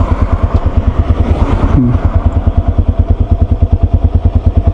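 Yamaha Serow 250's air-cooled single-cylinder four-stroke engine running steadily at low revs, a regular thump of about nine pulses a second.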